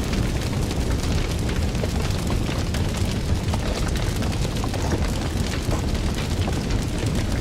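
Fire burning with a steady low rumble of flame and frequent sharp crackles and pops.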